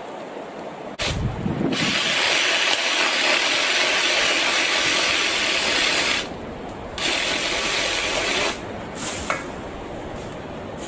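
BLACK+DECKER 18V cordless saw cutting through a tree branch, running in a long spell of about five seconds, a short pause, then a shorter spell.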